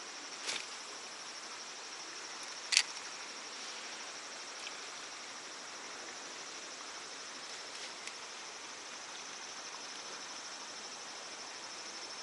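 Insects, crickets or similar, chirping in a steady high-pitched chorus, with two sharp clicks, the second about three seconds in being the loudest sound.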